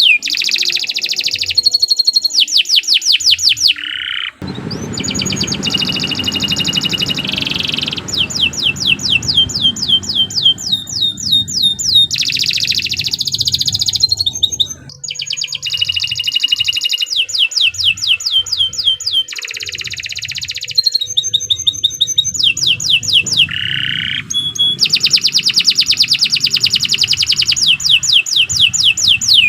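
Domestic canary singing a long, unbroken song: fast trills of quickly repeated falling notes, switching to a new phrase every second or two.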